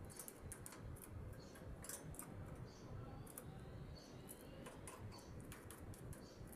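Pet canaries giving short, high chirps and squeaks, scattered irregularly, with a faint drawn-out whistle around the middle.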